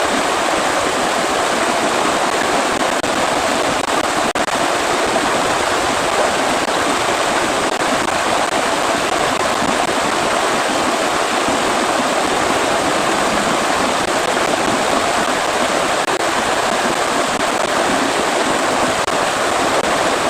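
Rain falling steadily, a dense, even hiss of water.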